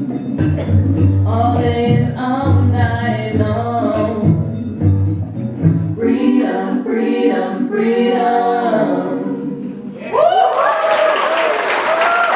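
A song's singing voices over a low bass line; the bass drops out about six seconds in and the voices carry on alone. About ten seconds in the song ends and an audience breaks into applause and cheering.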